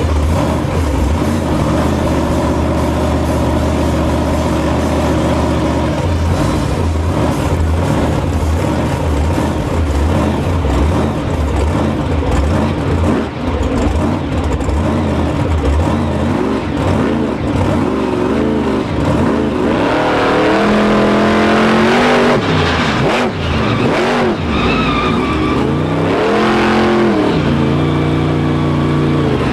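Monster truck engine running loud and revving, its pitch sweeping up and down repeatedly in the latter part.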